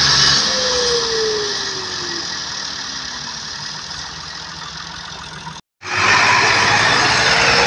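A tractor engine's whine drops in pitch and fades over several seconds. After an abrupt cut, a louder engine comes in with a rapid low pulse and a slowly rising whine.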